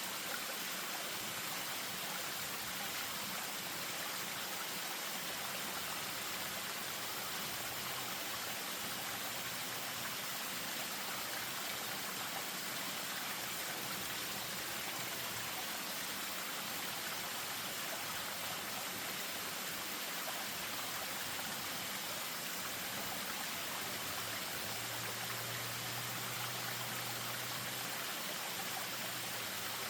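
Spring-fed stream running over a small waterfall: a steady, even rush of water.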